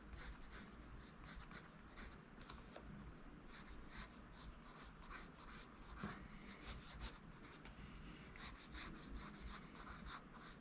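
Graphite pencil drawing on paper, faint: many short, quick scratching strokes.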